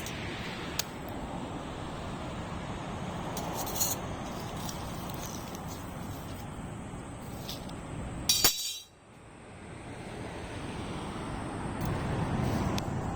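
Steady rushing background noise with a few light clinks, and a louder clatter about eight and a half seconds in, after which the sound briefly drops away and slowly returns.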